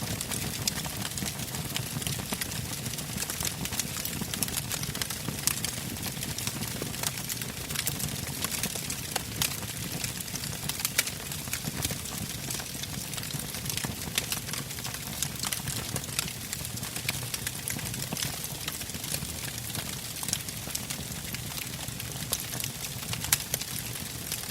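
Wood fire burning, with frequent sharp crackles and pops of the logs over a steady low rush of flame.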